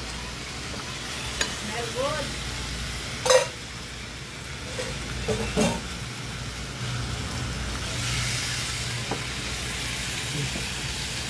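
Raw chicken pieces sizzling in hot oil and onions in a nonstick electric skillet, with a couple of sharp knocks against the pan. Near the end a wooden spoon stirs the chicken and the sizzle grows louder.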